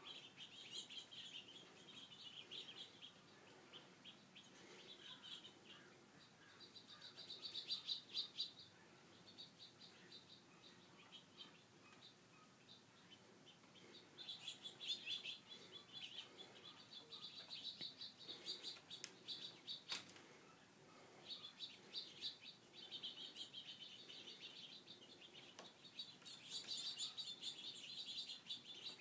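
Small birds chirping faintly in repeated bursts of rapid high chirps, each a second or two long, with short pauses between.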